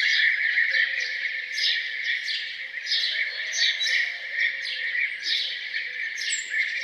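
Songbirds singing in a chorus: many quick, high chirps repeating several times a second over a steady, dense wash of song.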